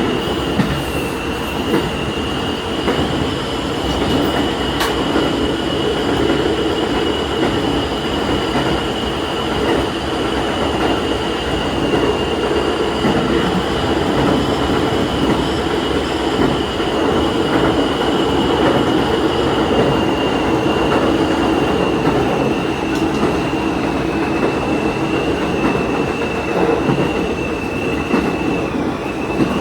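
Diesel railcar running along the line: a steady rumble of engine and wheels on rail, with a constant high whine over it.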